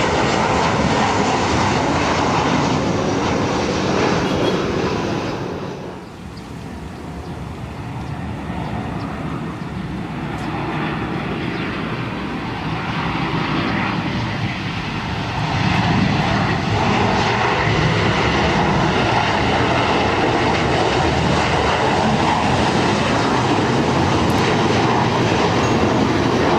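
Loud jet engine noise from a Boeing 747-400 freighter that dies down about six seconds in. A heavy steady rumble then builds and stays loud to the end.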